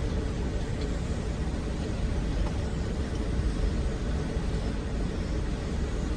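Steady rumble and hiss of a storm at sea, strongest in the low end, with no separate crashes or knocks.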